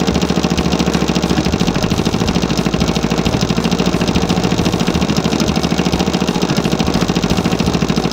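An engine running steadily, with a fast, even chugging pulse.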